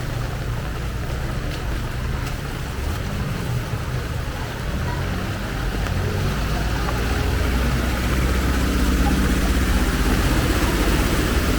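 A motor vehicle's engine running close by, a steady low rumble that grows louder in the second half, under the constant hiss of heavy rain.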